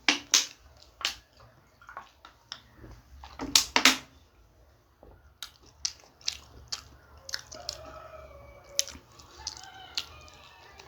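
Close-up eating sounds: crisp bites and crunchy chewing of a samosa and green chilli, several sharp crunches in the first four seconds, then quieter chewing.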